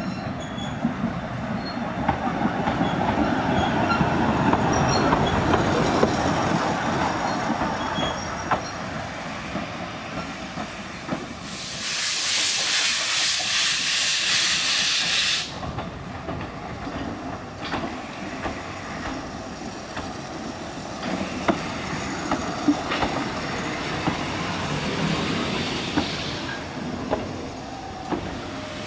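Narrow-gauge steam train running, with scattered clicks and knocks from wheels and couplings. About twelve seconds in, a loud hiss of released steam lasts about four seconds and cuts off suddenly.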